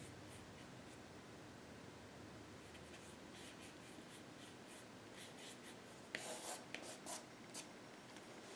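Paintbrush with acrylic paint stroking on canvas: a series of short, faint strokes, with a few louder strokes near the end.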